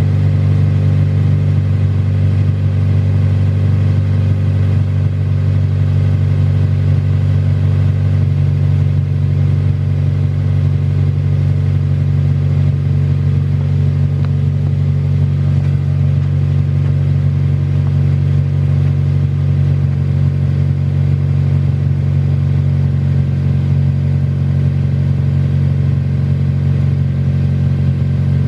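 Honda Civic Si's four-cylinder engine idling steadily, a constant low hum that does not change.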